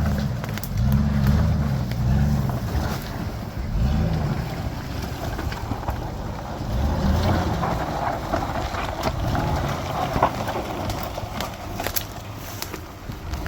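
GMC Z71 pickup truck's engine revving in repeated surges, rising and falling in pitch, with scattered clicks and rattles.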